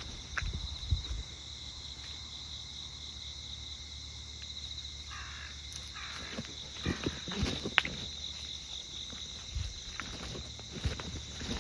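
Insects chirring steadily in a fast, even pulse, with a few footsteps scuffing on pavement near the start and again in the second half.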